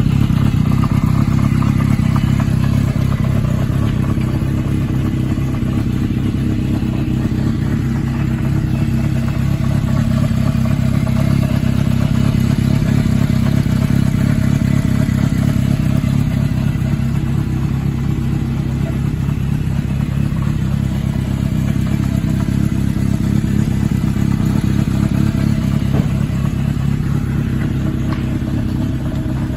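Kawasaki Zephyr 400's air-cooled inline-four engine idling steadily.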